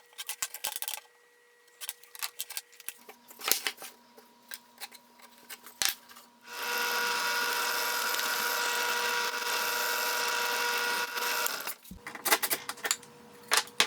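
Light clicks and knocks of workpieces and hardware being handled, then a power drill runs steadily for about five seconds and stops.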